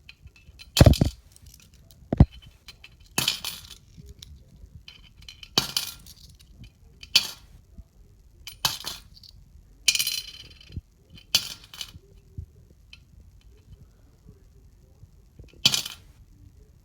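Ice on a driveway being chipped and broken up with a snow shovel: about nine separate crunching, scraping strokes, spaced irregularly a second or more apart.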